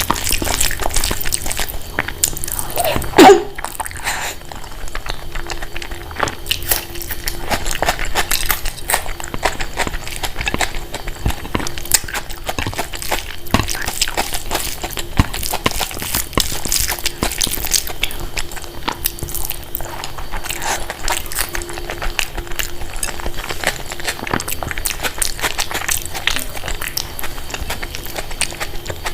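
Close-miked eating sounds: a steady run of chewing, biting and wet mouth clicks. About three seconds in there is one brief, loud, pitched sound.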